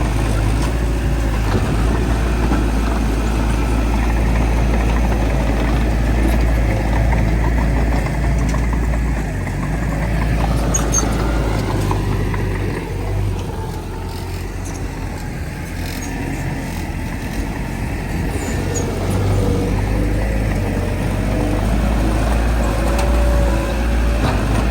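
Heavy diesel earthmoving machinery running steadily with a deep engine rumble. It eases off somewhat about halfway through, then works up again near the end.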